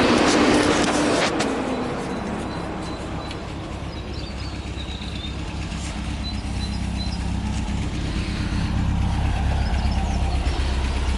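A classic MG's engine running at low speed as the car is manoeuvred. A loud rush of noise in the first second or so ends with a sharp click, then a steady low engine hum that slowly grows louder.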